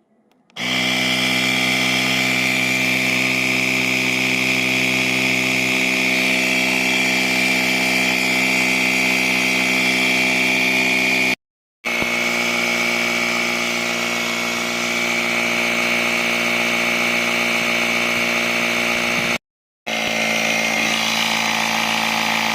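A small motor running steadily with a high-pitched whine over a low hum. It cuts off abruptly twice and resumes each time.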